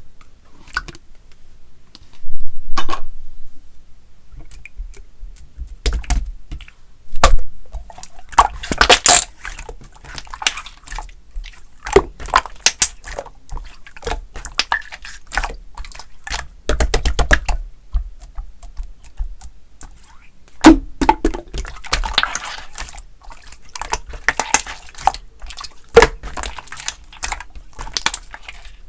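Pink slime being squished and poked by hand: many wet, sticky clicks, pops and squelches at irregular spacing, with some quick crackling runs.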